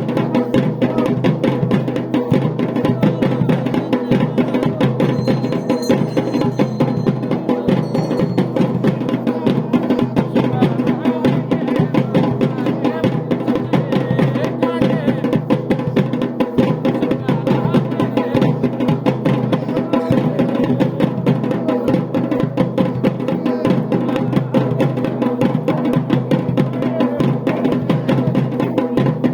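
Drums played continuously in a steady, pulsing rhythm.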